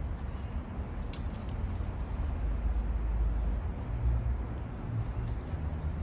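A few brief high chirps from small birds, one clear one about a second in, over a steady low rumble.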